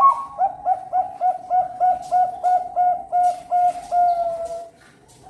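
Zebra dove (Bangkok-bred perkutut) singing: a loud opening note, then a quick run of about a dozen even coos, roughly three a second, closing on a longer drawn-out note.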